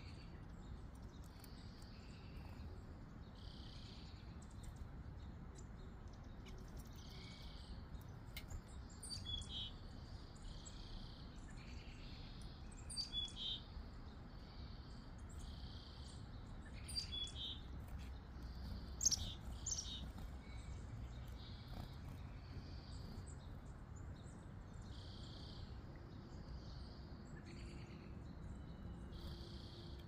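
A few short songbird chirps, the loudest about 19 seconds in, over a high buzz that repeats every second or so and a faint low rumble.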